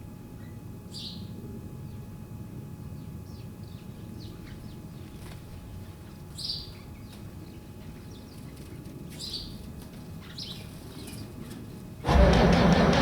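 Birds chirping every few seconds over a low steady rumble. About twelve seconds in, a sudden loud rhythmic sound begins: the starter cranking the International 3850 wheel loader's diesel engine from cold.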